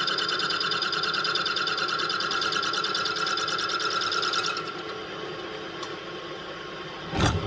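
Milling machine's end mill cutting a slot in metal with a rapid, strained chattering whine, which stops about two-thirds of the way through, leaving a low hum. The cut is being fed the wrong way, climb milling, and the machinist finds it unhappy. A single knock comes near the end.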